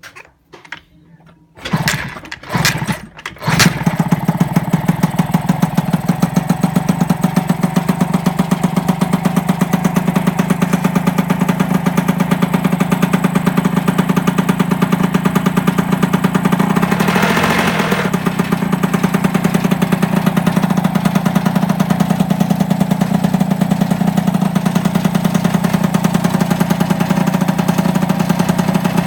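Small two-stroke moped engine, an MBK 51, being started after 28 years of storage: a few short sputters, then it catches a few seconds in and runs steadily with a fast, even beat. It is briefly revved about halfway through.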